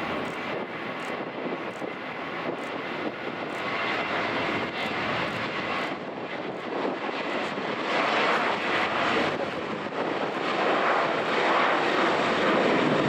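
Boeing 737-800 jet airliner with its CFM56 turbofan engines running, a steady rushing jet noise that grows louder about eight seconds in.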